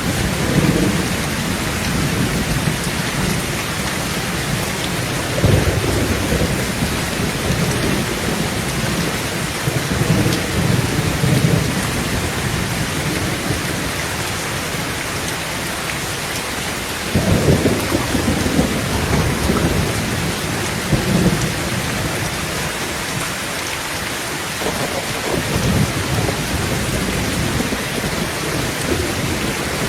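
Heavy rain on a tin tent roof, a steady hiss, with thunder rumbling low half a dozen times, the loudest roll a little past halfway through.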